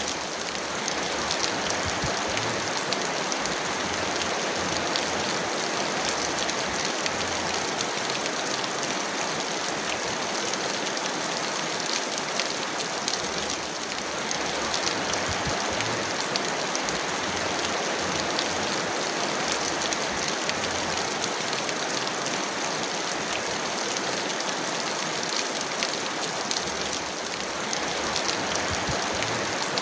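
Heavy rain falling steadily, a dense patter of individual drops over an even hiss.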